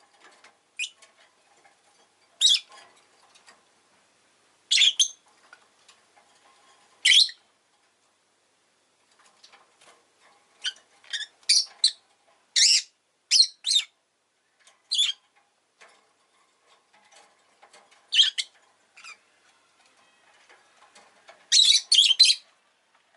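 Rosy-faced lovebird giving short, shrill chirps: single calls every couple of seconds, with quick runs of several about halfway through and again near the end.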